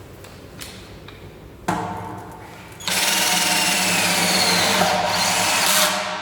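12 V brushless cordless drill run with no load: a short lower-speed burst about two seconds in, then held at full speed for about three seconds with a steady whine, winding down at the end.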